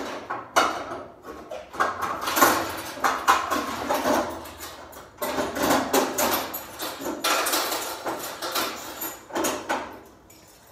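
Coins being handled: an irregular, continuous run of sharp clinks and clatters with no steady rhythm.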